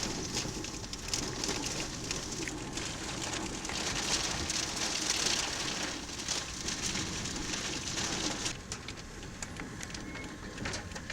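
Rain falling steadily, with many scattered small drop hits over a constant rushing noise.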